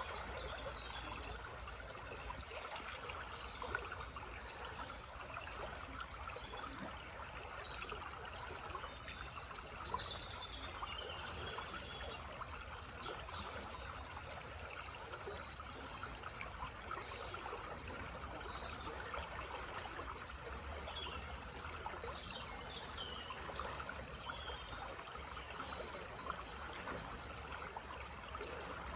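A small forest stream trickling and babbling steadily, with songbirds chirping and calling now and then above it.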